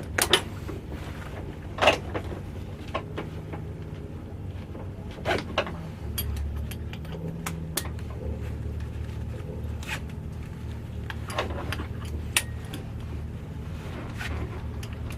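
V8 engine idling as a steady low rumble, with scattered sharp clicks and knocks over it.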